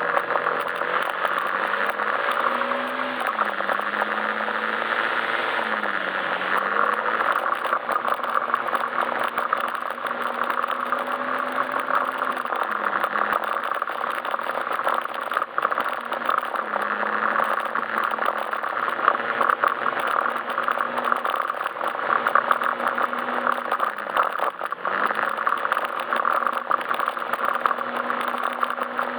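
Yamaha Majesty S scooter's single-cylinder engine running under way, its pitch dipping briefly with throttle changes about three, six, thirteen and twenty-five seconds in and recovering, over steady road noise.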